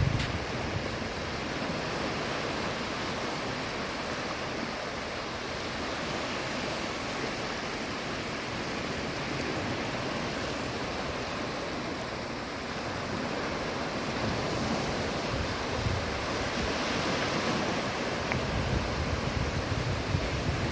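Sea waves washing on the shore in a steady rush, with low gusts of wind rumbling on the microphone, strongest near the end.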